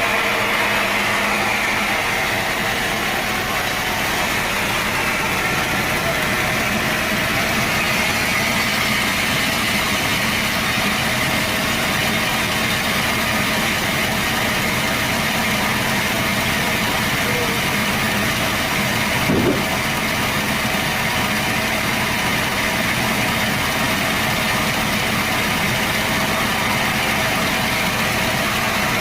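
Sawmill saw machinery running steadily with a continuous drone and hiss. A single brief knock sounds about two-thirds of the way through.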